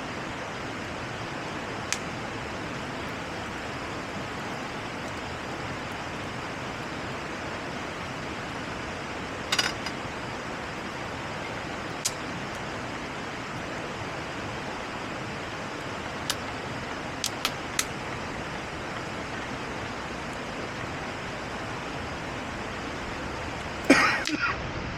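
A steady, even rushing hiss, with a few sharp clicks scattered through it and a louder clatter near the end.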